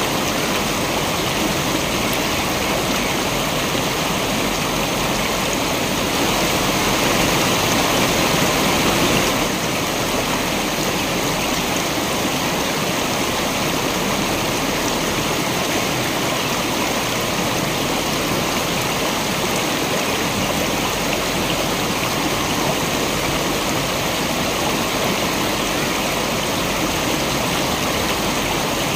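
Waterfall rushing: a steady, dense hiss of falling water, swelling slightly for a few seconds between about six and nine seconds in.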